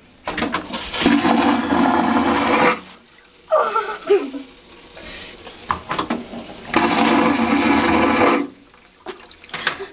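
Cruise ship vacuum toilet flushing twice with a loud whoosh, each lasting a second or two, as toilet paper is sucked down it.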